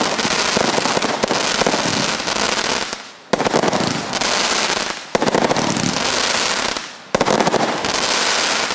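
Lesli "Hurricane Force" firework going off as a dense, continuous crackling. The crackling dies away and then starts again abruptly three times.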